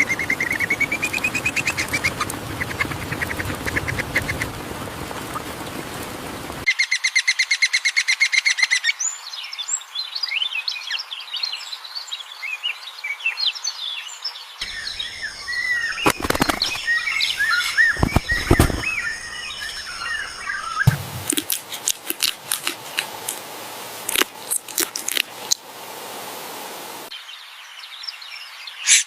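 Shrike nestlings begging in the nest: many rapid, high chirps, in several spliced stretches that change abruptly, with a few sharp clicks midway.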